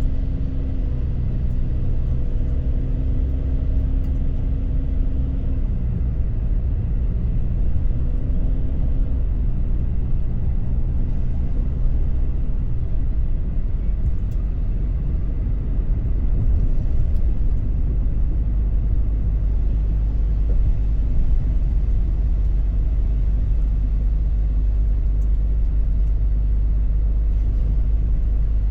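Car driving, heard from inside: a steady low road rumble with an engine hum whose tones fade after about twelve seconds, leaving a heavier low rumble.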